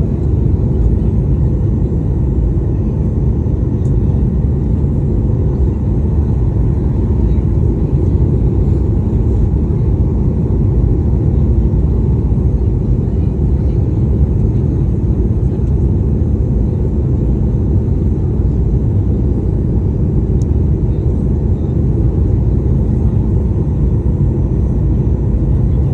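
Steady cabin roar of a Boeing 737-800 in flight: engine and airflow noise, deep and unchanging, with a faint steady hum on top.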